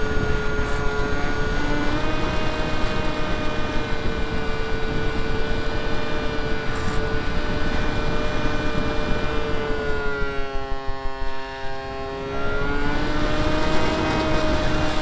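Brushless electric motor and 7x6 propeller of a Skyartec Skyfun RC jet-style plane running with a steady whine, heard from an onboard camera with heavy wind rush on the microphone. About ten seconds in, the wind rush drops away and the whine dips a little in pitch, then climbs back about two seconds later.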